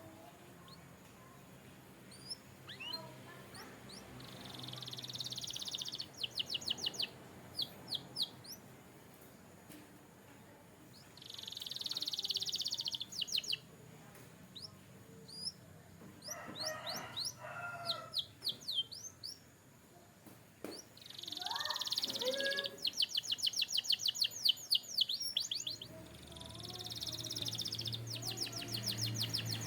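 Canary singing in repeated phrases, each a buzzy high note followed by a rapid run of short falling notes, with lower, softer calls in between.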